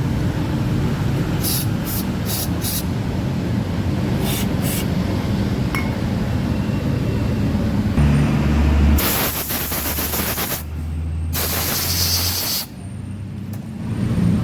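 Two hissing spray bursts, each about a second and a half long, around nine and eleven seconds in, typical of cleaner sprayed into a dirty wiring connector. A steady low hum runs underneath, with a few light clicks about two seconds in.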